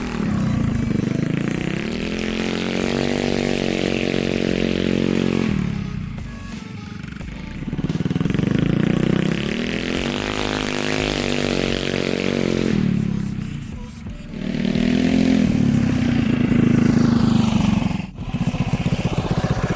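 Mini bike's Predator 224 single-cylinder four-stroke engine revving hard through three full-throttle runs, its pitch climbing with each pull and dropping back as the throttle eases between them.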